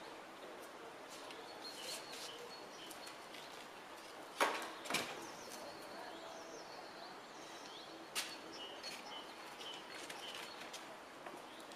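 Outdoor ambience with small birds chirping over and over in the background. A few sharp knocks stand out, two about four and five seconds in and another near eight seconds.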